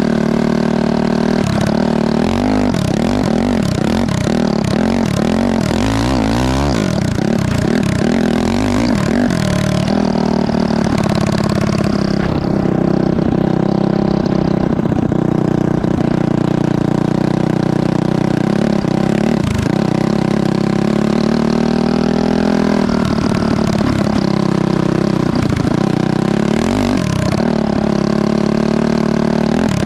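Go-kart's Honda CRF450 single-cylinder four-stroke engine running under way. Its revs rise and fall repeatedly, settle to a fairly steady pitch about a third of the way in, then vary again near the end.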